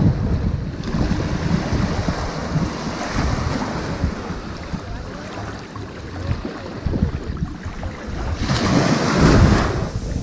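Ocean waves washing onto a sandy beach, a steady surf hiss with one wave surging louder near the end, along with the rumble of wind on the microphone.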